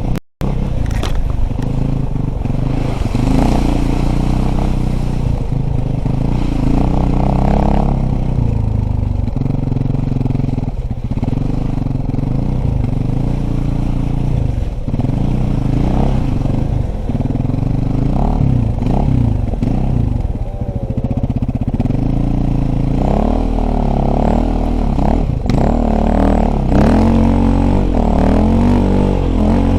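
Dirt bike engine running under load while being ridden, its pitch rising and falling repeatedly as the throttle opens and closes, with rattling from the bike over rough ground. The sound cuts out for a moment just after the start.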